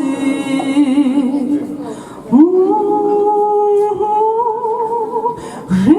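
A woman singing without accompaniment, drawing out long held notes with vibrato; the note ends about two seconds in, a new one slides in just after and is held, and another begins near the end.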